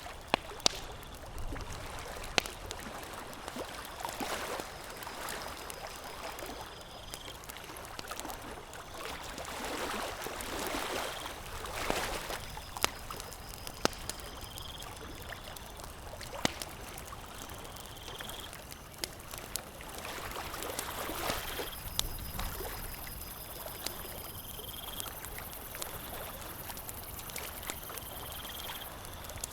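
Wood campfire crackling, with about a dozen sharp pops scattered over a steady wash of lake water lapping that swells now and then. A short, high, rising chirp comes back every few seconds.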